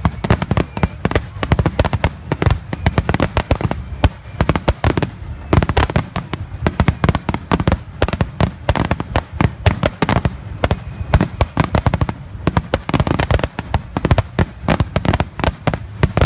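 Fireworks display: shell bursts and crackles going off in rapid, continuous succession, several a second.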